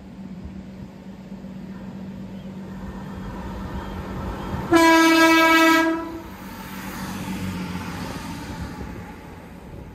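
A diesel multiple unit approaching with its engine hum and rail noise building, sounding one horn blast about a second long halfway through, then passing close by with a rush of wheel and engine noise that fades away.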